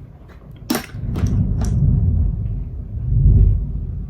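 Thunder rumbling, swelling loud about a second in and again near the end, with a few sharp clicks early in the first swell.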